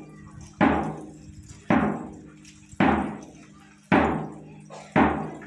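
A steady beat of heavy percussion strokes for a rain dance, five evenly spaced hits about a second apart, each ringing down before the next. A low steady hum sits between the beats.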